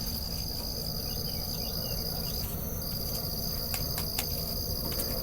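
Crickets trilling steadily at night in a high continuous tone, pausing briefly about two and a half seconds in, with a few faint ticks near the end.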